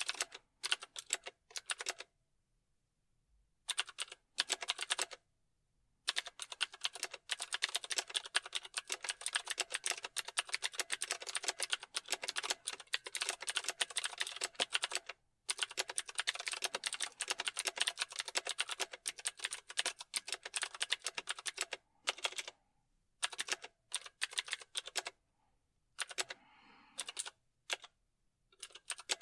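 Fast typing on a keyboard: runs of rapid key clicks broken by short pauses, the longest about two seconds in.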